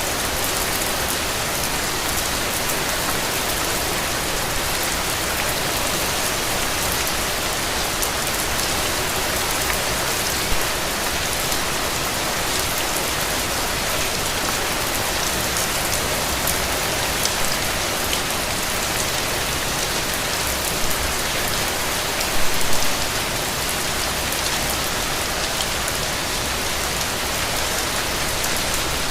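Steady rain falling, an even hiss of drops. A few louder drops or spatters stand out, the loudest a little over two-thirds of the way through.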